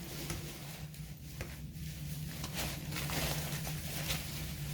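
Faint rustling and light clicks of foam packing peanuts being stirred as ferrets wrestle in them, over a steady low hum.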